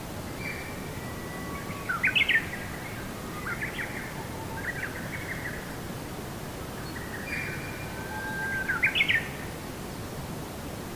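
Bird song: two similar phrases about seven seconds apart, each a held whistle that ends in a quick run of rising notes, over a steady background hiss.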